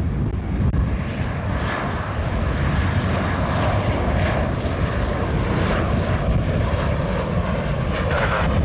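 Jet airliner engines running as the aircraft passes: a steady low rumble with a faint whine above it, building slightly.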